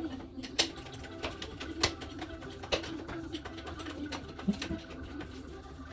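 Pigeon or dove cooing, with a few short sharp clicks and knocks scattered through it.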